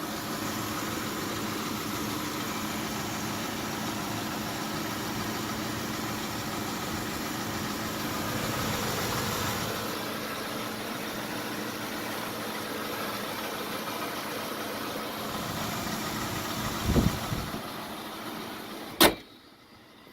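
2002 Ford Explorer's V8 engine idling steadily and a little rough; it is a sick engine that runs but makes hardly any power. Near the end there is a single sharp slam, after which the engine sound drops suddenly.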